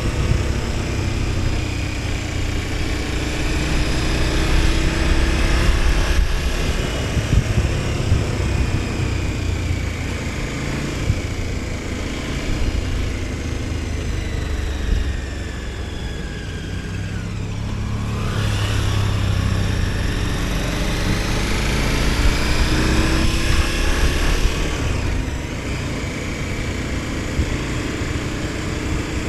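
KTM 1290 Super Adventure S V-twin engine riding on the road, its revs rising and falling through the gears, easing off about halfway through and then pulling up again.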